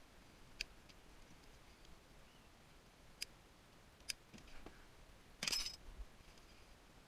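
Three sharp, separate clicks spread over the first four seconds, then a short rasping scrape, the loudest sound, a little past the middle, against a quiet background.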